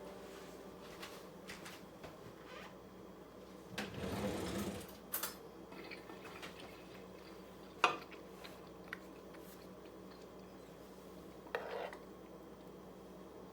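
Quiet kitchen food-prep handling: scattered clinks and knocks of dishes and utensils, with a short scraping noise about four seconds in and a sharp click a little past the middle.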